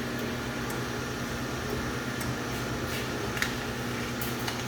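Steady low mechanical hum from running machinery, with a few faint light clicks.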